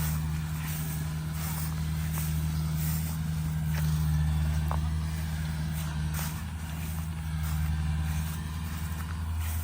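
Kubota DC70G Plus combine harvester's diesel engine running at a steady speed, a low even drone with a light mechanical rattle over it.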